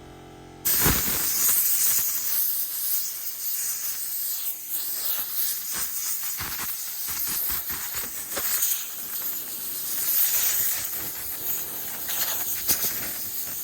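Compressed air blowing brick dust out of freshly cut masonry: a loud, steady hiss that starts suddenly about a second in and flutters in strength as the nozzle moves.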